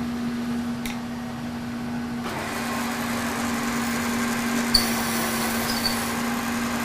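Kearney & Trecker 2HL milling machine, set up as a lathe, running with a steady hum. About two seconds in, a rougher, noisier sound joins the hum and carries on, and there is a sharp click near the five-second mark.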